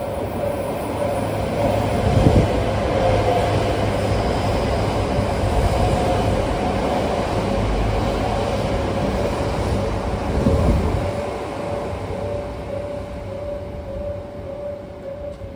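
Yamagata Shinkansen E3-series trains running through a station without stopping: a loud rush of wheels and running gear on the rails. It swells about two seconds in and eases off after about eleven seconds.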